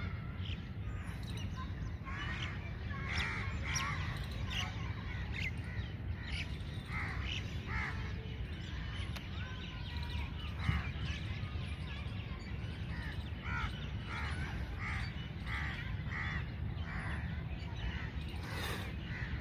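Birds calling: many short calls, one after another, over a low steady rumble.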